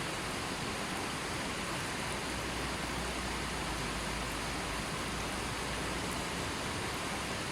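River water flowing steadily over rocks, making an even, unbroken rushing hiss.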